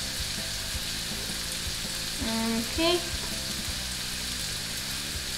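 Sautéing carrots, celery and onion, with halved garlic laid cut side down, sizzling steadily in a frying pan.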